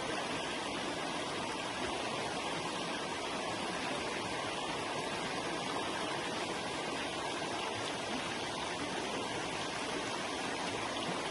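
A forest river flowing and rushing over rocks in a steady, even wash of water noise.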